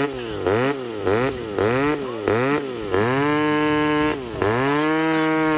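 Two-stroke chainsaw engine revved in quick repeated blips of the throttle, then held at steady high revs with one brief drop about four seconds in.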